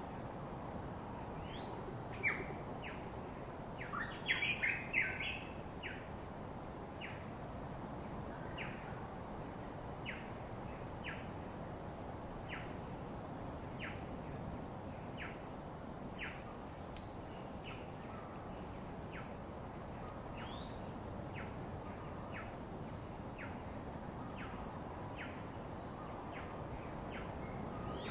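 Birds calling: short chirps repeated about once a second, a brief cluster of louder calls about four seconds in, and a few rising whistles. Underneath runs a steady low rush of background noise and a thin, steady high whine.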